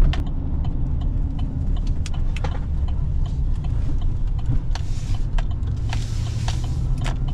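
Pickup truck running: a steady low engine and road rumble with scattered light clicks and rattles.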